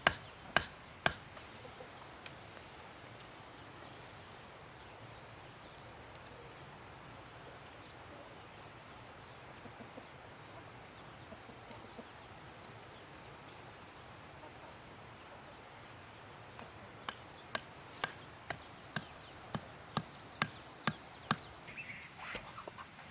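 Insects chirring steadily in a high register, one pulsing and one held. Near the end comes a run of about nine sharp, evenly spaced knocks, roughly two a second, from some striking work.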